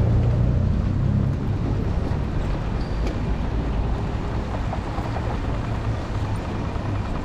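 Tram running, heard from inside the car: a steady low rumble of the moving tram.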